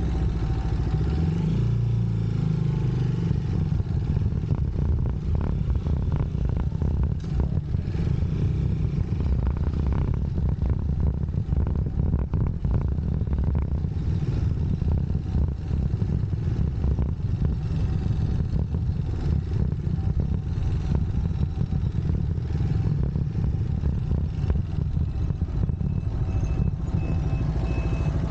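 UM Scrambler X motorcycle engine running steadily under way, its pitch shifting a little in the first few seconds.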